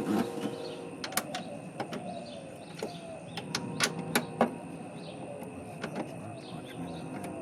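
Scattered small clicks and taps of a screwdriver and metal parts as the under-hood light is fastened, with a short squeak about three seconds in.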